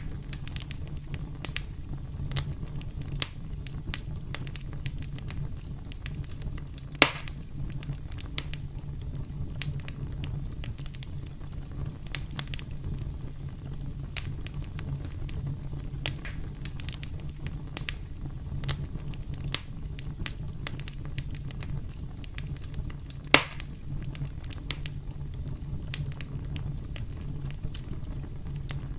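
Campfire crackling: a steady low rumble of burning wood with frequent small pops, and two louder pops, one about seven seconds in and one near twenty-three seconds.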